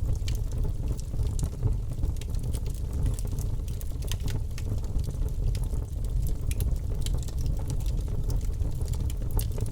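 Wood fire crackling: many small, irregular pops and snaps over a steady low rumble of flame.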